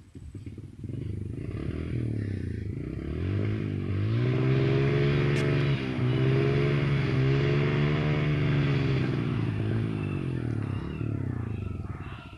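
Small motorcycle engine running under way, its pitch rising and falling repeatedly as the throttle is opened and eased.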